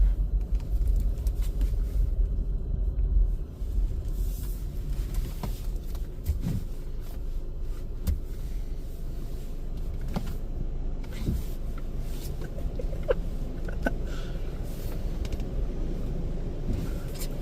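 Car running, heard from inside its cabin as it moves slowly into the wash. A low rumble is loudest for the first few seconds, then drops to a steadier, quieter hum with a few small clicks.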